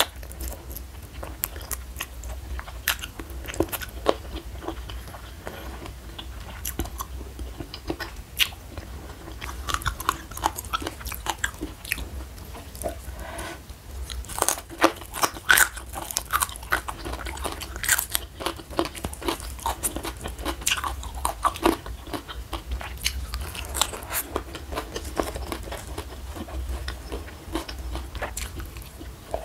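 Close-miked eating: a person biting and chewing raw leafy greens, with many sharp crisp crunches and wet mouth clicks, busiest in the middle. A steady low hum runs underneath.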